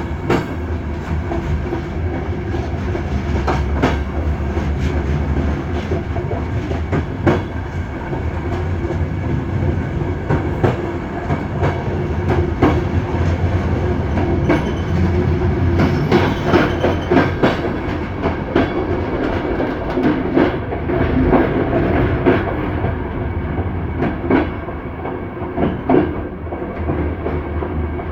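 Passenger train carriage running along the track: a steady rumble of wheels on rails, broken by sharp clicks and knocks as the wheels cross rail joints.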